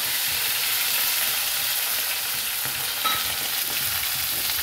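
Fresh fenugreek leaves, cumin seeds and black peppercorns frying in hot oil in a stainless steel kadhai: a steady sizzle.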